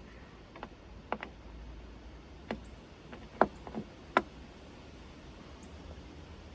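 Scattered sharp clicks and knocks, about seven of them at irregular intervals, over a faint low hum.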